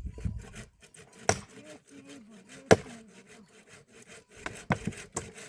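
Firewood being worked by hand: a quick run of dry wooden scraping and crackling, broken by a few sharp knocks, the loudest nearly three seconds in.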